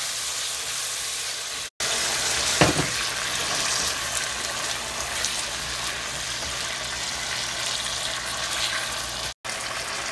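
Marinated chicken livers sizzling in hot oil in a pan over high heat as they are stirred with a silicone spatula, with one sharp click about two and a half seconds in. The sizzle drops out for an instant twice where the recording is cut.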